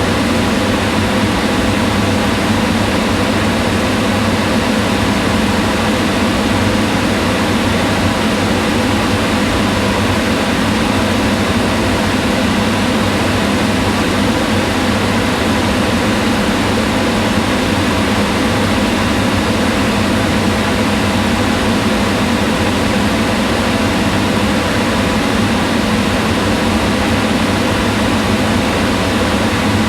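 Kitchen range hood exhaust fan running steadily: an even whoosh of moving air with a low hum.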